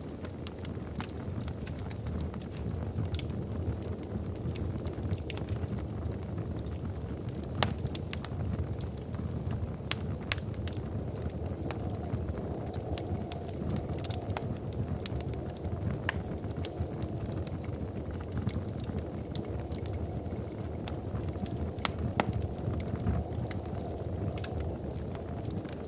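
Wood fire crackling in a fireplace: a steady low rumble of flames with scattered sharp pops and snaps, a few of them louder.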